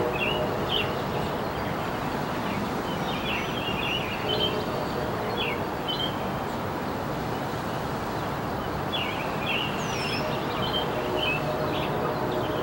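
Songbirds chirping in short repeated calls, with a couple of high falling whistles about ten seconds in, over a steady hiss of outdoor ambient noise.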